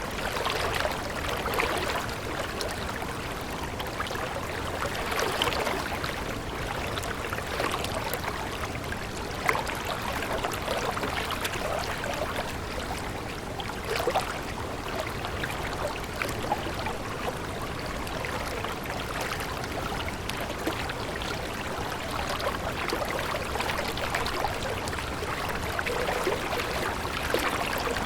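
Stream water running and trickling steadily, with many small splashes.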